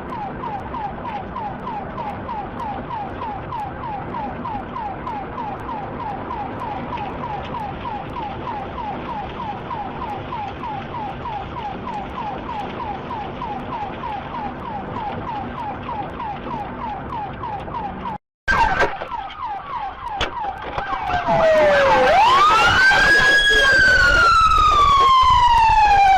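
Emergency vehicle siren on a fast yelp, about three rising sweeps a second. Then a short break, and a louder, slower wail rising and falling.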